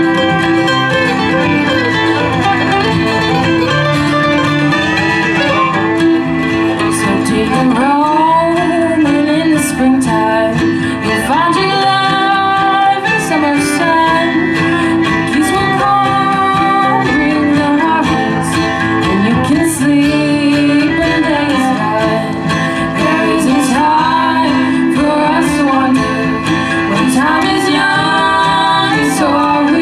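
Live acoustic bluegrass band playing, with strummed and picked guitar and other plucked strings. A gliding melody line rises over the accompaniment from about eight seconds in.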